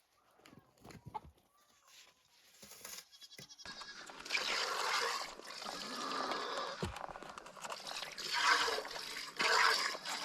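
Several Oberhasli dairy goats bleating: faint, thin calls at first, then a loud, dense bleating from about four seconds in.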